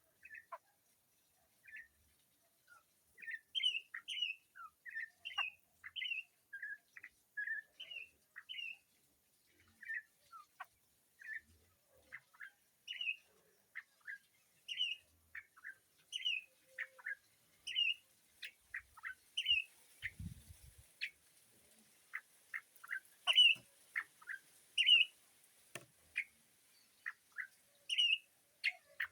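Birds calling with short, sharp chirps, one or two a second, in an irregular run.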